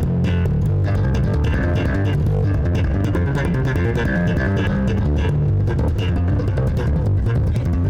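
Bass guitar and guitar playing a band groove, the bass the most prominent, with short percussive hits running through it.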